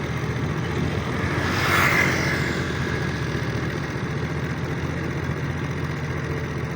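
Tractor engine running steadily with a low, even rumble, with a brief swell of higher hiss about two seconds in.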